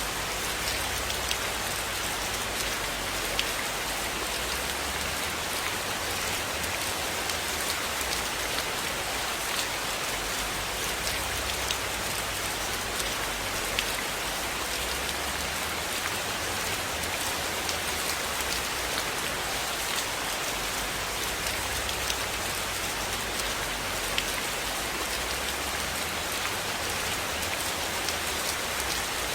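Steady rain falling on a cabin: a continuous dense hiss with scattered sharp ticks of single drops and a low rumble underneath.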